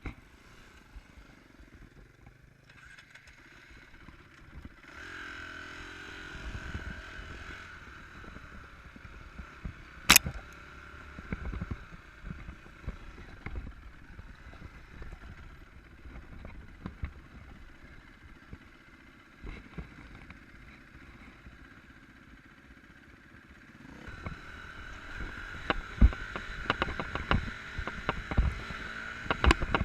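Enduro motorcycle running over rough ground, the engine note rising and falling, with many sharp knocks and clatters from the bike jolting over the trail, most of them near the end.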